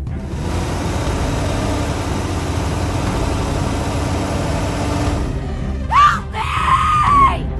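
Steady low engine rumble of a heavy construction vehicle. About six seconds in, a short high-pitched cry rises sharply, holds, then falls away.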